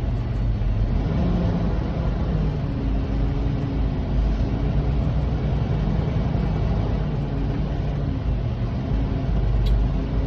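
Kenworth semi truck's diesel engine running steadily while driving, heard inside the cab as a low rumble whose pitch drifts slightly with engine speed. A brief click comes near the end.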